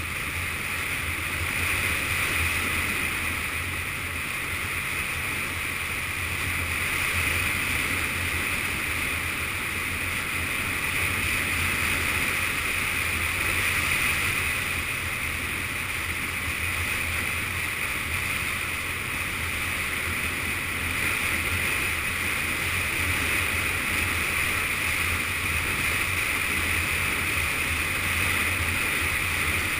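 Yamaha FZS600 Fazer's inline-four engine running steadily under way, mixed with a constant rush of wind noise from riding at speed; the level rises and falls only a little.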